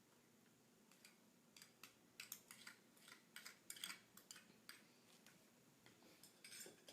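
Faint, scattered clicks and scrapes of a spoon stirring a glue-and-water slime mixture in a cup.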